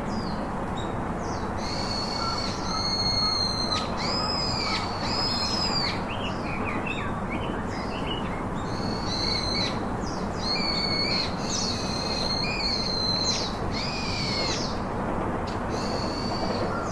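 Birds calling: a run of short, arched, whistled notes, repeated many times over a steady background hiss.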